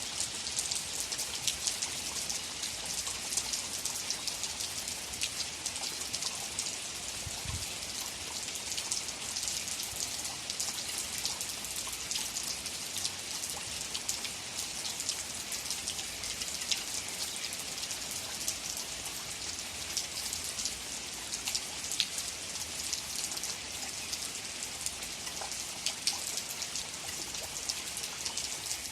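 Steady rain falling: an even hiss made of many separate drop ticks. A brief low thump about a quarter of the way in.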